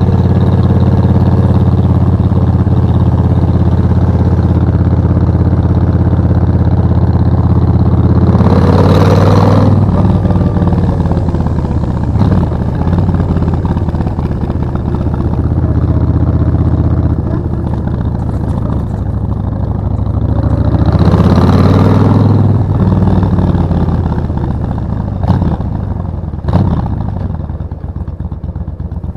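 Suzuki VS1400 Intruder's V-twin engine running steadily under way, with two brief whooshes swelling and fading about 9 and 21 seconds in. The engine gets quieter near the end, with a couple of sharp clicks.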